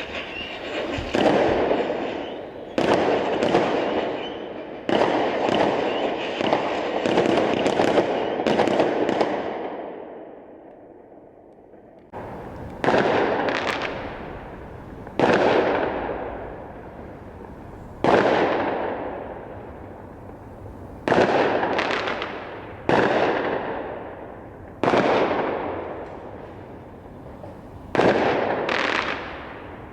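Fireworks bursting in a long series of bangs, each fading away over a second or two. The bangs come thick and overlapping at first, ease off briefly about ten seconds in, then go off singly every two to three seconds.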